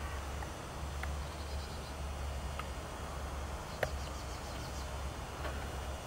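Distant birds calling across open water: scattered short calls, two runs of faint high twittering, and one sharp call about two-thirds of the way in, over a low steady rumble.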